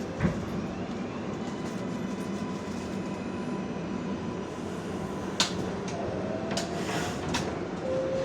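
R142A subway car running between stations: a steady rumble of wheels on rail, with the propulsion whine slowly rising in pitch as the train picks up speed. A sharp knock comes just after the start and another about five seconds in.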